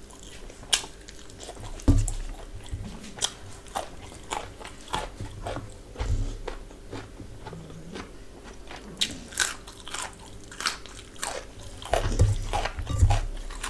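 A person chewing and crunching food close to the microphone: a run of many sharp, crunchy clicks, with dull low thumps about two seconds in, about six seconds in and near the end.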